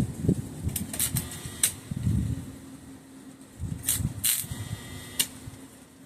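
Scattered sharp clicks and duller knocks from handling and working a piece of thin steel plate, with a faint steady hum from about two seconds in.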